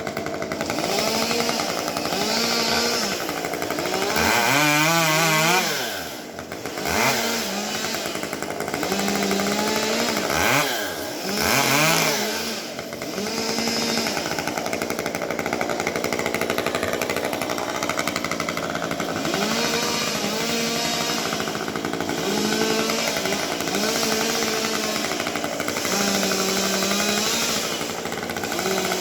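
Chainsaw running under load, its engine pitch falling and climbing again a couple of times as the throttle is eased off and opened back up.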